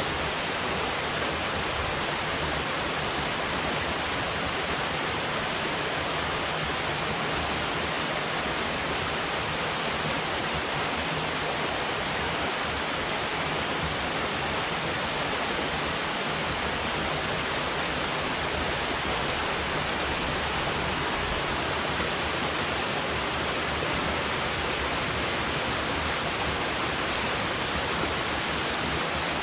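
Water falling from a dam and rushing down the river below it: a steady, even roar of water.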